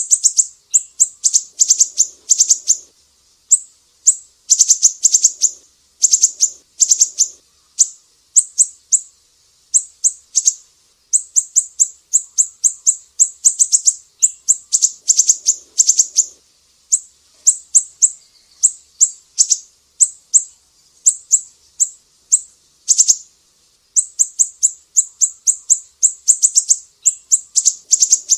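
Sumatran siri-siri bird singing in fast, piercing runs (besetan): high, sharp notes repeated several times a second in bursts of a second or two, with brief breaks between them.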